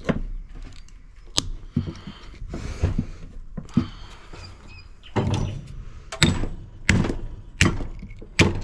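Pliers gripping and working a transformer off a washing machine's circuit board: irregular sharp clicks, snaps and knocks of metal and board, coming more often in the second half.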